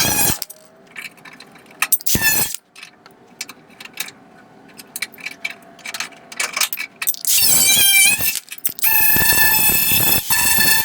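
Electric grinder run in short bursts on the fender's sheet metal, a high steady whine each time, with light clicks and knocks of handling between bursts.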